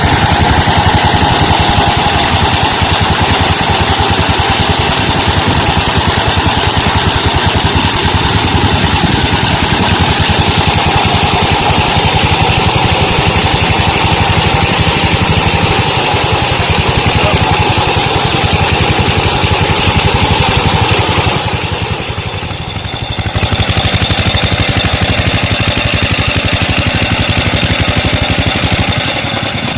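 Petter-type 16 HP diesel engine running steadily, driving a tube-well water pump, with a rapid, even beat of firing pulses. Its sound dips briefly about two-thirds of the way through.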